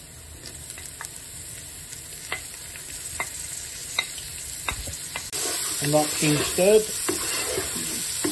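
Minced ginger and garlic scraped off a bowl with a wooden spoon into a pot of onions frying in oil, then stirred: the oil sizzles, louder from about five seconds in, with light taps of the spoon against the bowl and pot.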